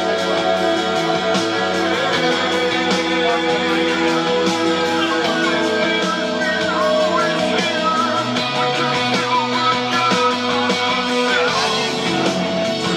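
Alternative rock music led by electric guitars, playing steadily throughout.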